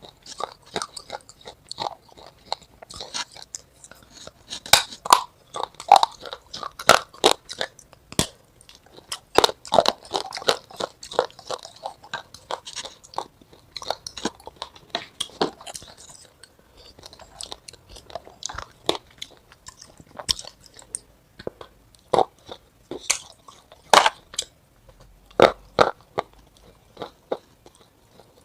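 A person chewing and biting crunchy food close to the microphone: irregular crisp crunches, some louder bites, keep going the whole time.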